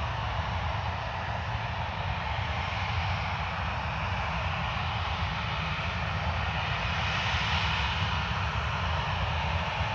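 Jet airliner engines: a steady rushing noise over a low rumble, growing a little stronger about seven seconds in.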